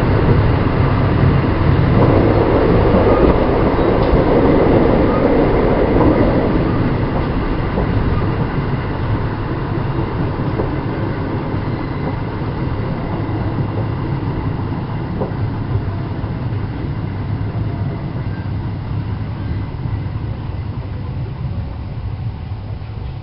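JR West 223 series electric train running on the rails, heard from on board. The rumble grows gradually quieter as the train slows into a station stop.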